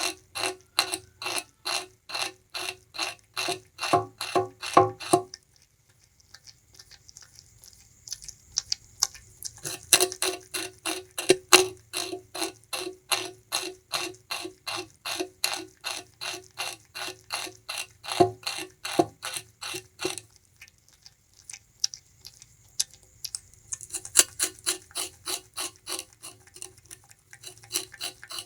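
Bamboo rat gnawing and chewing sugarcane: rapid, even crunches of about five a second, in bouts of several seconds with brief pauses about 5 s in and again about 20 s in.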